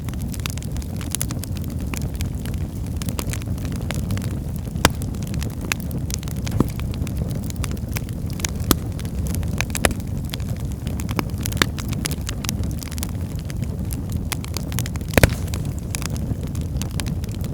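Wood fire burning in a fireplace: a steady low rumble of the flames with scattered crackles and pops from the burning logs, a few sharper pops standing out.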